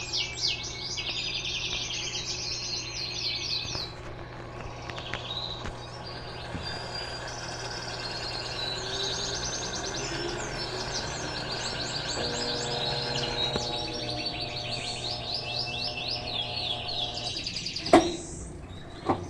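Songbirds chirping in repeated fast trills, over a steady low hum, with a sharp knock near the end.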